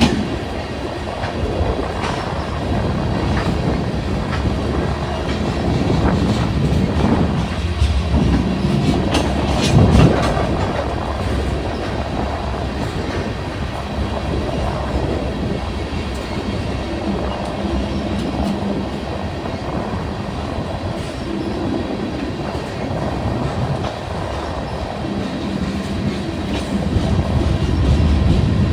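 Freight train rolling past, steel wheels clicking over rail joints under a continuous rumble. A low steady drone grows louder near the end.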